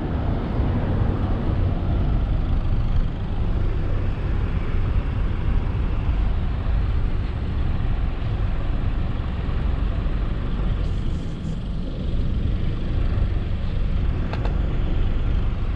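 Steady wind and road rush while riding a 72-volt, 5000-watt DIY electric bike, heaviest in the low end, with a couple of faint clicks in the second half.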